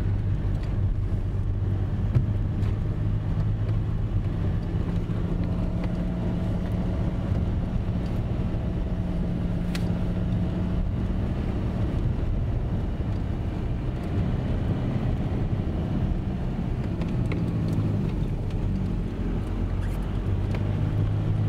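Car engine running steadily under load as the car climbs a mountain road, with tyre and road rumble, heard from inside the cabin.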